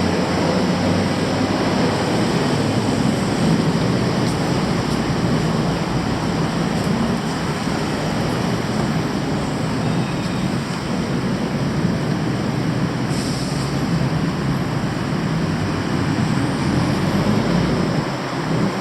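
Loud, steady rumble of vehicles, with a low heavy drone and no clear rise or fall.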